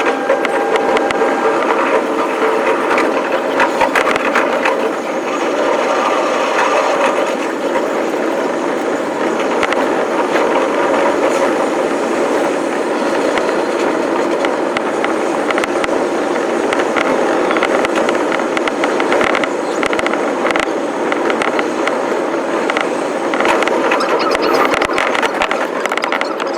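Electric commuter train running on the rails, a steady rumbling noise with a dense run of rapid clicks from the wheels and rail joints and a squealing edge, the whole sound sped up with the video.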